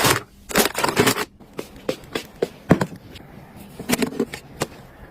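Irregular taps, clicks and short scrapes of small household items being handled and set down.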